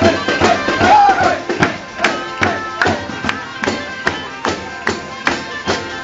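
Traditional Cilento folk music: a voice sings briefly at the start, then a steady tambourine-like beat of about two and a half strokes a second goes on under sustained reed tones.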